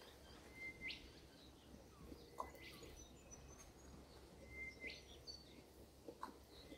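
Faint birdsong: a bird repeating one call, a short held note that snaps into a quick upward sweep, three times about two seconds apart, with fainter high chirps around it.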